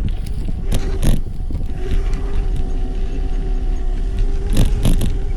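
Electric dirt bike being ridden: a steady motor whine over heavy wind rumble on the microphone, with a few sharp rattling knocks about a second in and again near the end.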